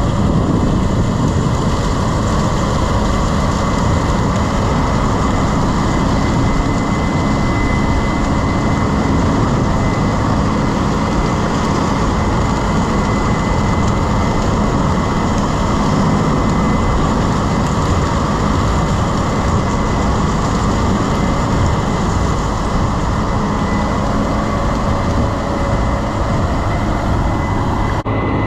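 Heavy farm machinery running at a steady, unchanging drone, with a thin high whine throughout.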